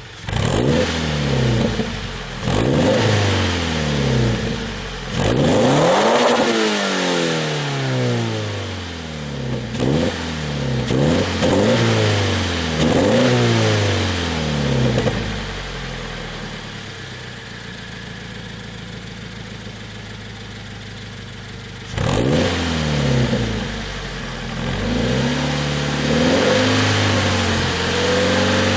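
Toyota GT86 flat-four boxer engine through a Remus sport exhaust being revved repeatedly, each rev rising sharply and falling back. The highest rev comes about six seconds in. It settles to a steady idle for several seconds past the middle, then is revved again.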